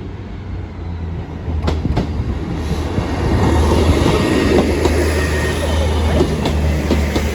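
Class 158 diesel multiple unit passing over a level crossing: a steady low diesel engine drone with sharp clicks of wheels crossing rail joints, getting louder about two and a half seconds in.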